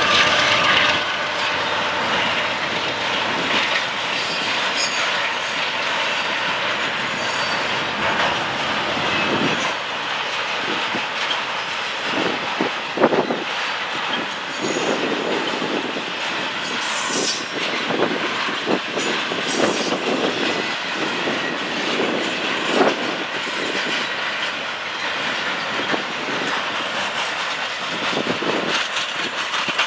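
Double-stack intermodal freight train rolling past on the main line: a steady rumble of steel wheels on rail with repeated clanks and clicks from the well cars, the sharpest about 13 seconds in. A mid-train diesel locomotive's engine is heard passing in the first second.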